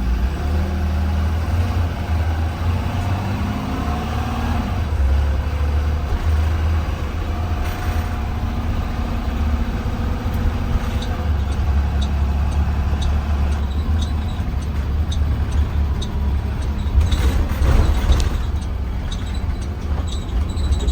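A 2020 Blue Bird Vision school bus driving along, heard from inside: a steady deep engine drone and road rumble, with scattered rattles and a louder burst of clatter about seventeen seconds in.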